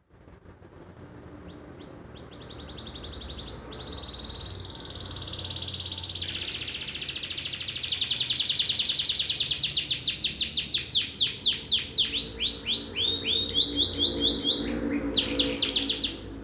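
Domestic canary in full song: a long run of rapid high trills that grows louder about halfway through, turning into fast repeated sweeping notes of about six or seven a second.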